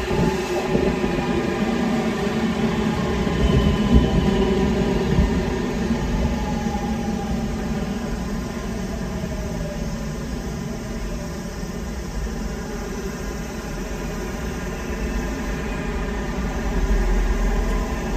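Senboku Rapid Railway 9300 series electric train coming into a station and slowing: whining motor tones glide down in pitch as it brakes, over a continuous rail rumble that grows louder near the end as it nears the platform.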